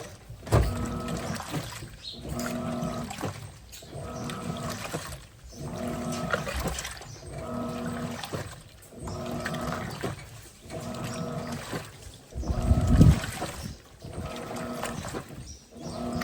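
Electrolux Turbo Capacidade Premium 15 kg top-loading washing machine agitating a load with its LPR16-style agitator. The motor hums and water sloshes in strokes about every second and a half, with short pauses as the agitator reverses. A heavier low thump comes from the drum near the end.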